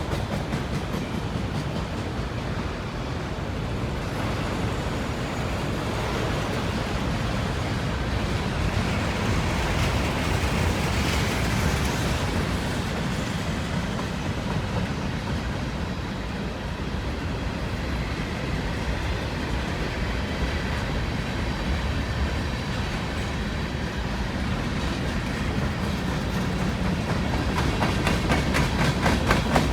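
Freight cars of a long mixed manifest train rolling past: a steady rumble of steel wheels on rail, with clickety-clack over the rail joints, a little louder near the end.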